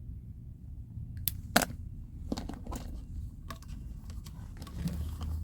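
Scattered sharp clicks and light clatter of small parts being handled, the loudest about a second and a half in, over a low steady hum.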